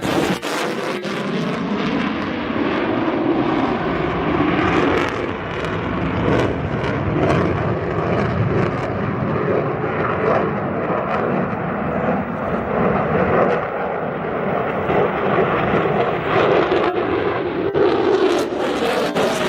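Jet roar of an F-22 Raptor's twin Pratt & Whitney F119 afterburning turbofans in an airshow demonstration: a falling pitch sweep as it passes near the start, a continuous loud rush through the middle, and a tone climbing again near the end as it comes back round.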